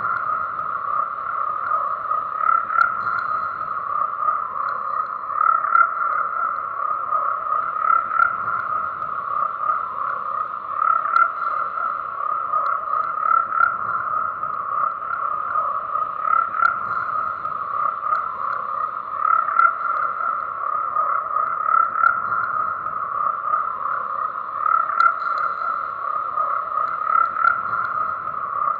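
Chorus of frogs croaking continuously, a dense unbroken mass of calls with louder swells about every two to three seconds.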